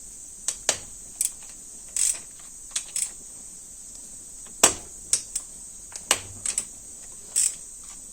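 Irregular sharp clicks and knocks of hand tools and parts being worked on the top end of a Honda CB750 engine during disassembly, the loudest about four and a half seconds in.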